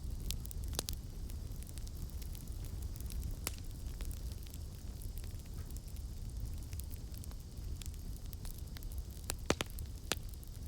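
Campfire crackling: a steady low rumble of burning wood with frequent sharp snaps and pops, and a few louder pops close together near the end.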